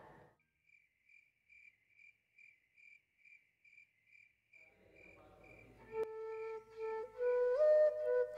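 Faint cricket chirping, evenly pulsed about two and a half chirps a second. From about five seconds in, a bamboo flute (bansuri) starts playing slow, held notes that step up in pitch near the end and grow louder than the crickets.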